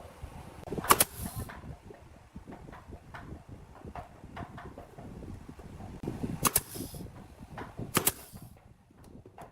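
Workshop work on wood: three loud, sharp cracks, about a second in and twice near the end, each followed by a short hiss, among lighter knocks and taps.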